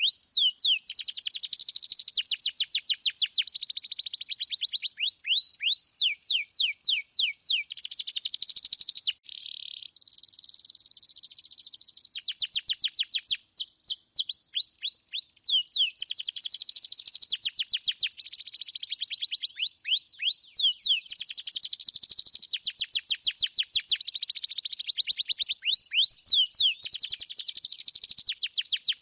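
Domestic canary singing continuously in a clear voice: long rolling trills alternating with series of repeated falling whistled notes, with a brief break about nine seconds in.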